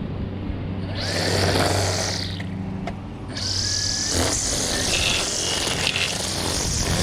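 Small gasoline engine of lawn equipment running steadily, with two long hissing surges of cutting noise over it, one about a second in and one from about three and a half seconds on.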